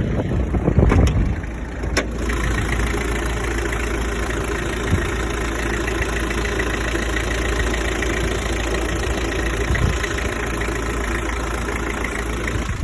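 A 1992 Toyota Hilux Surf LN130's 2.4-litre four-cylinder turbo-diesel idling steadily, warming up after a cold start. There are two sharp clicks in the first two seconds, after which the idle settles.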